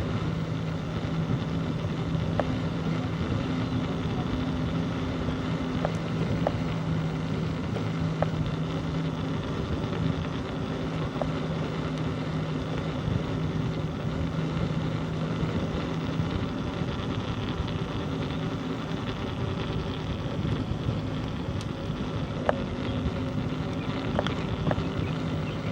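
Wind and rolling noise of a bicycle ride, with a steady low hum underneath that drops away about two-thirds of the way through and comes back shortly after, and a few faint clicks.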